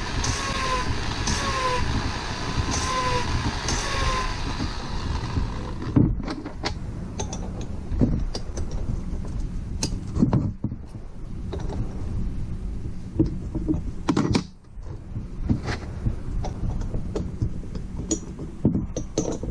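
Rhythmic hand-worked scraping of a valve-seat tool in a motorcycle cylinder head, with a short rising squeak about every second and a half. About six seconds in it gives way to scattered metal clicks and knocks as parts are handled.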